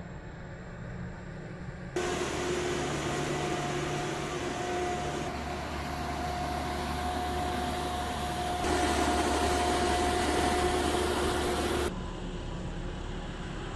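Steady jet engine noise with a high whine from a B-52H Stratofortress on the ground, in several stretches that change level suddenly from one to the next.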